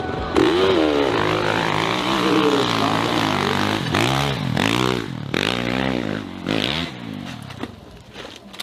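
Dirt bike engine revving, its pitch rising and falling again and again in short blips.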